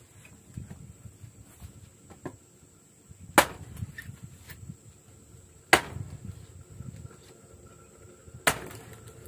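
Three sharp chopping blows, spaced two to three seconds apart, with a few lighter knocks between them.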